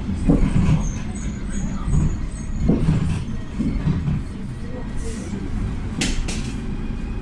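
Ride inside a PAZ 320414-04 city bus with a YaMZ-53423 natural-gas engine: steady low engine and road rumble with uneven bumps. About a second in there is a quick run of five short high beeps, and two sharp knocks or rattles come about six seconds in.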